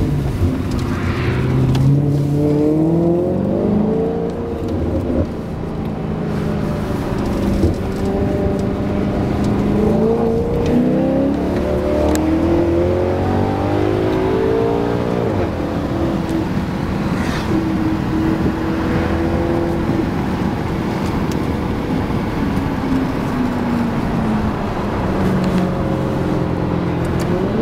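Maserati GranTurismo V8 breathing through an MC Sportline valved exhaust, driven under load. The pitch climbs with the revs several times and drops off at shifts or lifts, holds level for a while, then falls away near the end.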